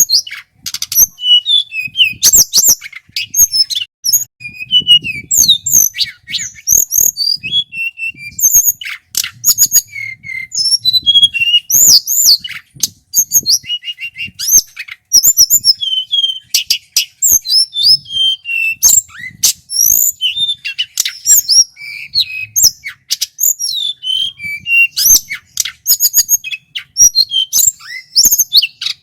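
Male tledekan gunung, a blue flycatcher, singing loud and without pause: quick chirps, clear whistled notes and rapid rolling runs, high-pitched and constantly changing.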